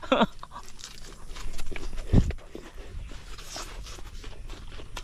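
Raw salad being bitten and chewed: scattered crisp crunches, with a dull thump about two seconds in.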